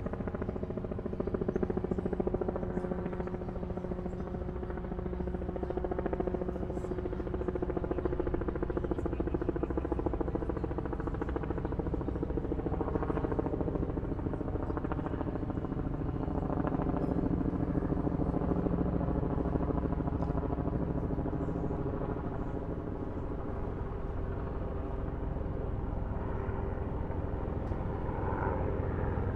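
Helicopter droning steadily overhead, a continuous rotor-and-engine hum with several steady tones over a low rumble.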